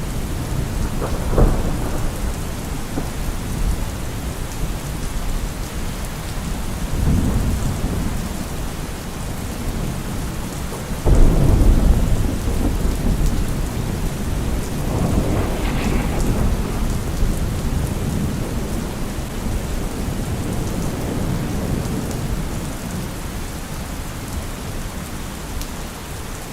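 Steady rain during a thunderstorm, with thunder rumbling low several times and one sudden loud clap about eleven seconds in.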